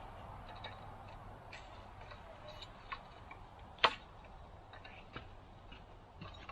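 Firewood burning in a wood stove, crackling with scattered sharp clicks and pops, one much louder pop about four seconds in.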